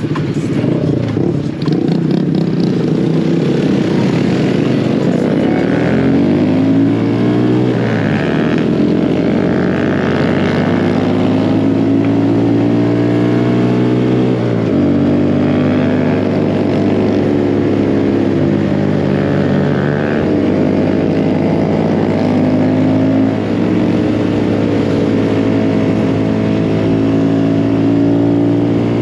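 Mini bike engine running while riding, its pitch rising and falling as the throttle is opened and eased off, with a clear drop about halfway through.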